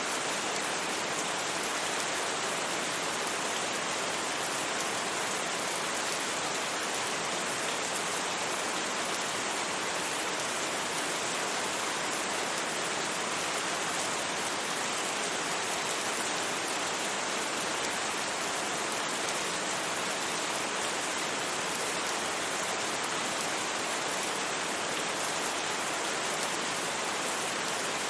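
Steady rain falling, an even hiss with no thunder and no separate drips or other events.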